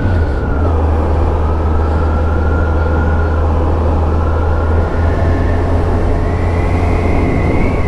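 Wind rumble and the running engine of a 2001 Yamaha FZS1000 Fazer's inline-four while riding at a steady speed. A faint whine rises slightly in pitch about six seconds in.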